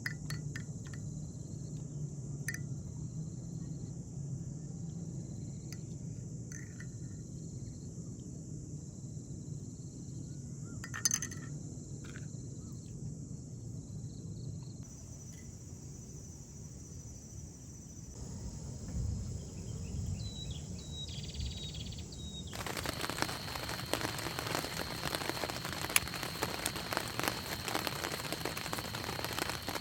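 Steady high buzz of insects over a low hum, with scattered light clicks and clinks. About 23 seconds in it cuts abruptly to steady rain falling.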